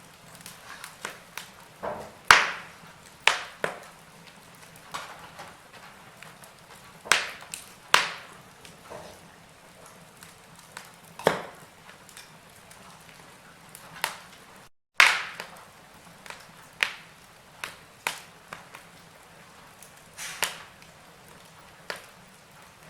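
Wood fire crackling in a fireplace: irregular sharp pops and snaps, roughly one every second or two, over a faint steady hiss. About fifteen seconds in, the sound drops out completely for a split second.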